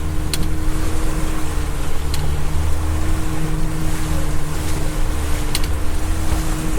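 Fishing boat's motor running steadily under way through heavy swell, with wind noise and water rushing past the hull. A few short, sharp knocks cut through it.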